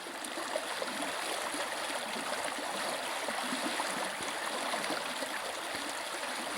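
River water flowing steadily, a continuous rushing with small gurgles.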